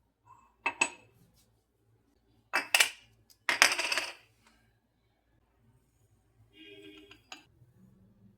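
Hard objects clinking and clattering as they are handled: two quick clinks, then two longer clattering bursts about a second apart, and near the end a short ringing tone followed by a click.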